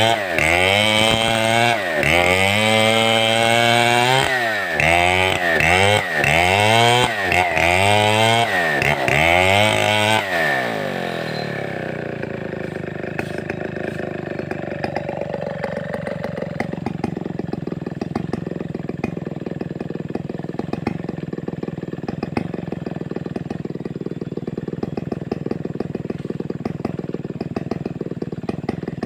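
Large Stihl 070-type two-stroke chainsaw (New West 707) revving up and down about once a second, then dropping to idle about ten seconds in and idling steadily.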